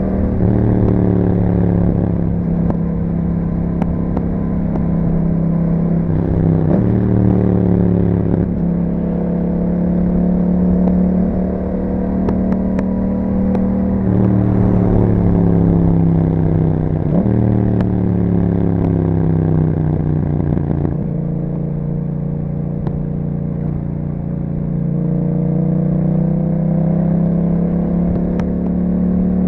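2021 Yamaha MT-07's parallel-twin engine through an Akrapovic exhaust, ridden on the road: the engine note climbs and falls over and over, with several sudden drops and jumps in pitch as the rider works the throttle and shifts gears.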